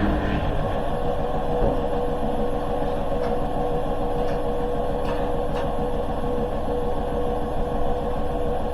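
Hoover H-wash 300 Plus washing machine running steadily in its pump-out spin, a constant whine over the rumble of the turning drum.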